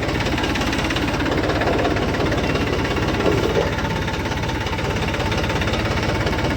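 Tractor's diesel engine running steadily, with an even, rapid knocking pulse.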